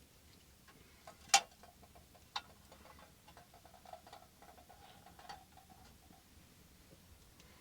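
A few sharp clicks and ticks. One loud click comes just over a second in and a second one a second later, with smaller ticks between them over a faint hum.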